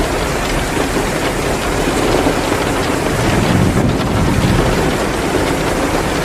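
Heavy downpour hissing steadily, mixed with the crackle of a wood fire in a fireplace. A low rumble swells about three seconds in and fades again.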